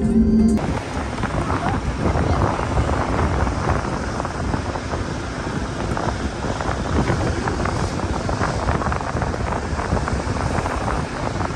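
Wind buffeting the microphone, a loud gusty rush that begins abruptly about half a second in as a steady hum cuts off.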